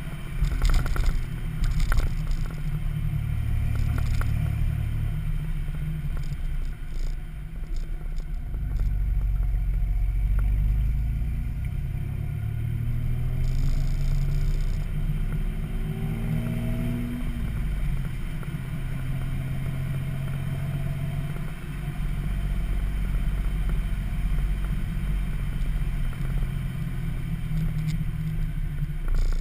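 1995 Toyota 4Runner's 3.4 L 5VZ-FE V6 running through a Flowmaster 40 muffler and 4-inch exhaust pipe, a deep, throaty exhaust note. A few knocks come in the first couple of seconds. About halfway through, the engine rises in pitch over a few seconds as it revs, then drops back.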